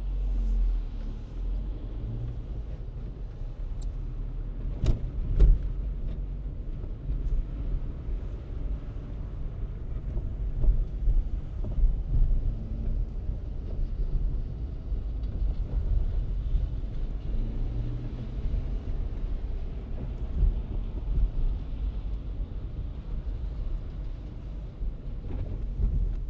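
A car driving on city streets: a steady low rumble of engine and tyres on the road, with a couple of sharp knocks about five seconds in.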